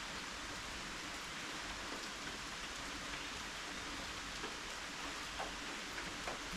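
Steady rain falling, an even hiss with scattered drips, a few slightly louder ones near the end.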